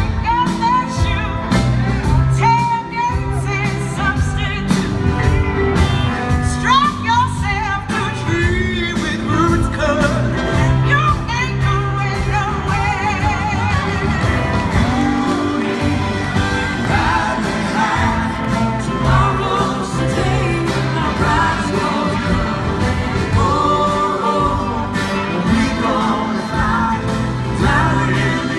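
Live rock band playing an instrumental passage of the song, with drums and bass under a wavering, gliding lead line.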